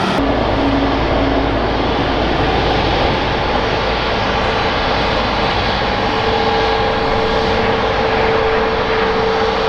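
Turbofan engines of an Airbus A320neo-family airliner running: a steady, loud rush with a steady whine that grows stronger about six seconds in.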